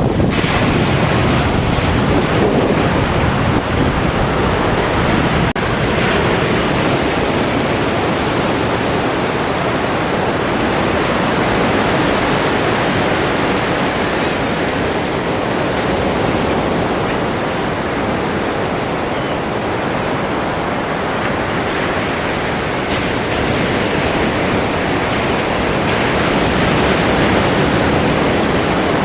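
Ocean surf: waves breaking and washing in as a continuous dense rush that swells and eases slowly.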